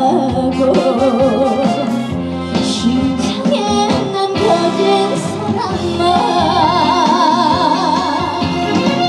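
Live trot music through a concert sound system: a full band with a lead melody sung or played with heavy, wavering vibrato, held long near the end.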